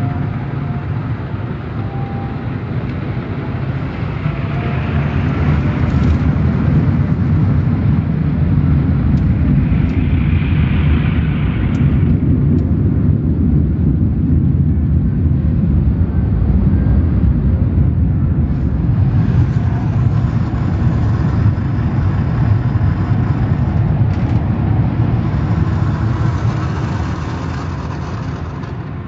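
Car wash equipment running: a loud, steady rumbling noise without any clear tone. It swells about four seconds in and eases off near the end.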